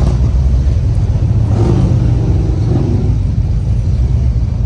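Motorcycle engines running in a steady low drone. About a second and a half in, one grows louder for around a second.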